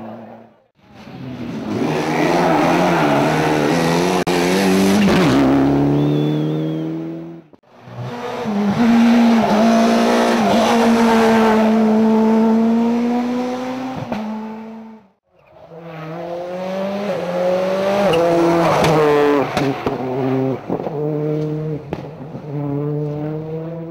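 Rally cars driven flat out on a special stage, in three separate passes with brief silent breaks between them. The engine note climbs and drops repeatedly with gear changes and lifts of the throttle.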